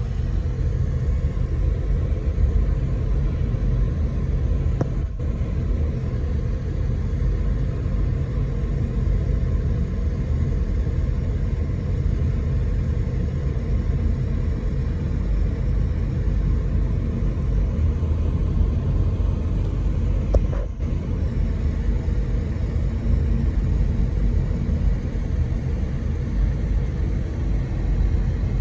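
Car driving, a steady low rumble of road and engine noise heard from inside the cabin, with two faint clicks about five seconds in and near twenty seconds in.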